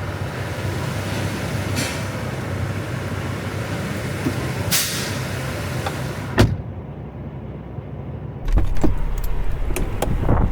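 Semi truck's diesel engine running with a steady low rumble, a short hiss, and a sharp knock about six seconds in. Near the end it changes abruptly to a louder, boomier low rumble.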